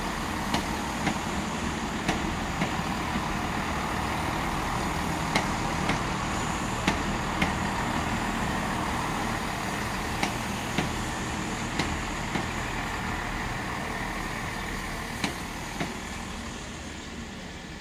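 Diesel multiple unit pulling away along the platform, its engines running with a steady hum. Its wheels click sharply over the rail joints at irregular intervals. The sound fades over the last few seconds as the train recedes.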